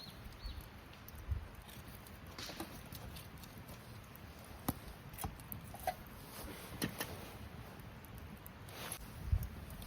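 Campfire crackling: scattered sharp pops and clicks at irregular times over a faint steady hiss.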